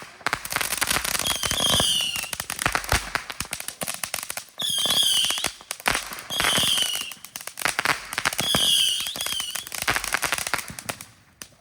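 Consumer fireworks going off: a dense, continuous crackle of small reports with about five short, high, wavering whistles rising above it.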